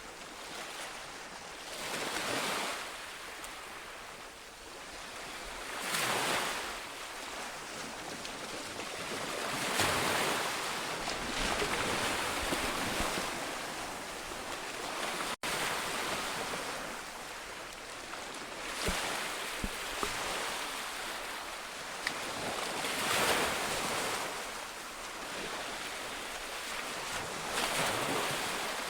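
Ocean waves breaking and washing ashore, the surf swelling and easing every few seconds, with a momentary cut in the sound about halfway through.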